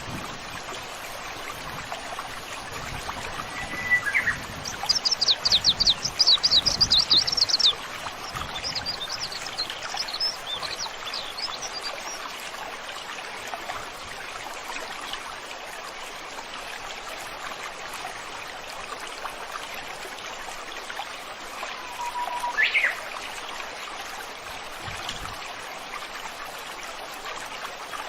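A stream flowing steadily, with songbirds singing over it. A loud, rapid series of high down-sweeping notes comes about five seconds in and lasts about three seconds, followed by softer twittering; a short whistled call rises in pitch about 22 seconds in.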